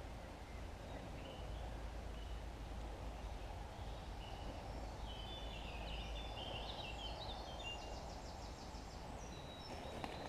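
Quiet woodland ambience over a low rumble. Birds chirp through the middle, including a rapid, evenly repeated trill.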